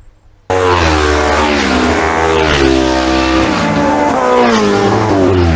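Racing motorcycles on a closed road course, engines at high revs with the pitch rising and falling through gear changes as they pass. The sound cuts in suddenly about half a second in.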